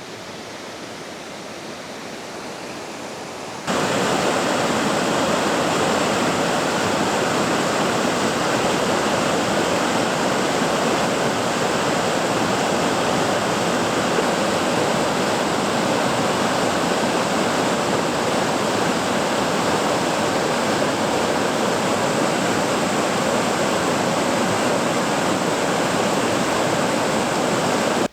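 Waterfall: a steady rushing roar of falling water, quieter for the first few seconds and then suddenly much louder about four seconds in.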